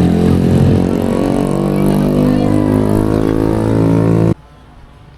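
A motor engine running steadily and loudly, cut off abruptly about four seconds in.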